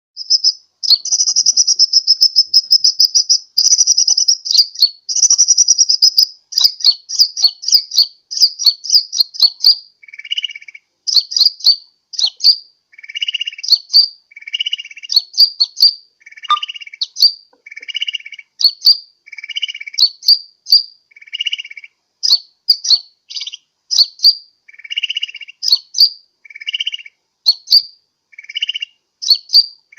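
Sunbird ('kolibri') lure call: a fast, high trill for the first several seconds, then a steady run of sharp high chirps with a lower buzzy note between them about every second and a half.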